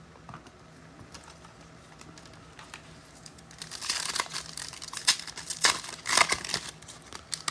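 Trading card pack wrapper being torn open and crinkled: a few faint clicks, then a run of crackly rustling from about halfway through.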